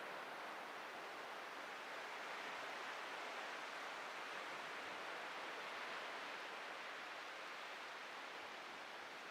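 Atlantic surf breaking on a beach: a steady wash of wave noise that swells a little a few seconds in and eases off near the end.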